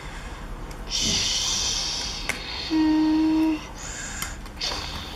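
A child's vocal play noises: a breathy hiss about a second in, then a short steady hummed note, with a few small clicks.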